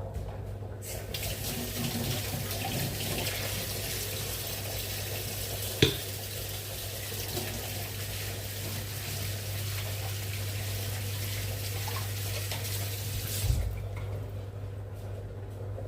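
Water running from a kitchen tap into a sink, starting about a second in and stopping shortly before the end, with one sharp knock midway. A steady low hum runs underneath.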